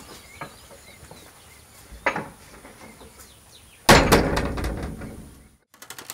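A wooden plank door in a metal frame slamming shut about four seconds in, the slam dying away over about a second and a half. A lighter knock comes about two seconds earlier.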